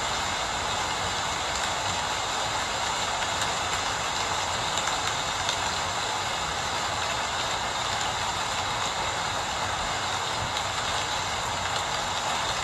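Steady rain falling, an even hiss with no change and no separate drops or events standing out.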